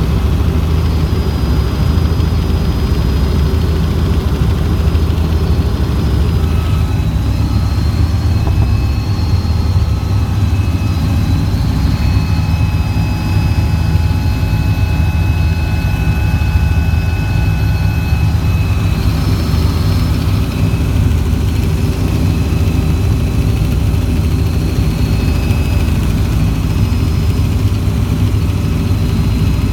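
Helicopter in flight: a loud, steady low rumble of rotor and engine, with faint high whining tones that come and go in the middle.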